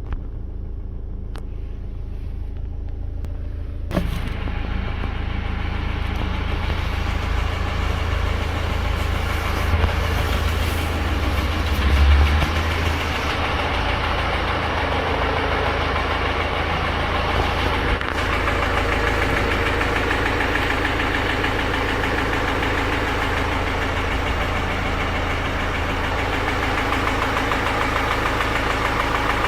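BMW X1 xDrive18d's four-cylinder diesel engine idling with a metallic knocking and ticking from the bottom end of the engine, the sign of a broken piston. The sound grows brighter about four seconds in, and there is a short low thump about twelve seconds in.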